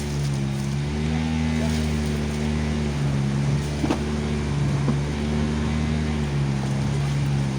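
Fishing boat's motor running steadily, its pitch wavering slightly up and down, with a couple of short sharp clicks about four and five seconds in.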